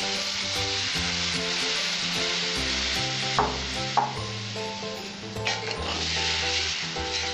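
Water just added to hot oil in a metal karai sizzling steadily while a wooden spatula stirs, with two sharp knocks of the spatula against the pan about three and a half and four seconds in. Soft background music plays underneath.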